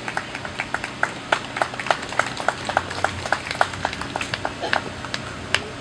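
Light, scattered hand-clapping from a small crowd, a few people clapping unevenly for an award winner, with one sharper clap near the end.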